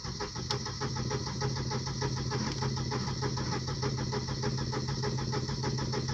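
Volvo 940 Turbo's 2.3-litre four-cylinder engine being cranked by the starter motor without catching: a steady starter whine with even, rapid compression pulses, about eight a second. It is a cold start after the car has stood about two years, with fuel not yet reaching the engine.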